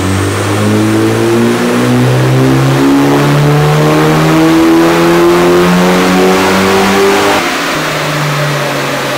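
Turbocharged 2.0-litre four-cylinder engine of a Mitsubishi Lancer Evolution IX at full throttle in fourth gear on a chassis dynamometer, revs climbing through a power run. The pitch rises for about seven seconds, then drops back near the end.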